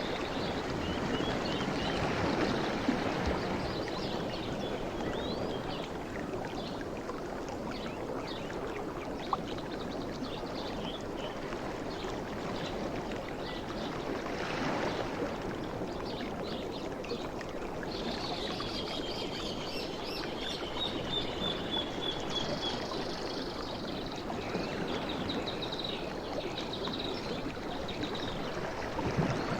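Sea waves washing continuously onto a shore, with waves swelling and breaking about two seconds in and again about halfway through. A faint high chirping comes and goes in the second half.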